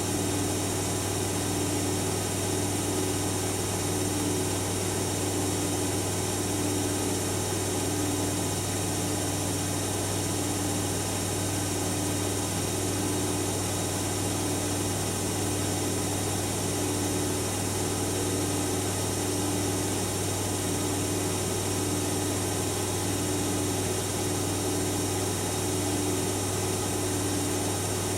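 Siemens Siwamat iQ 716 washing machine running, a steady low hum with a tone that pulses about once a second over a constant hiss.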